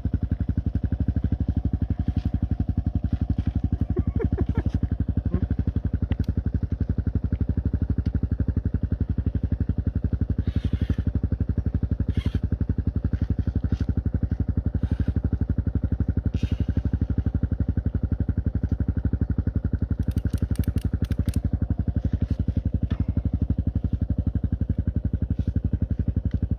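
Small engine idling steadily, an even low running pulse, with a few light clicks and rattles over it.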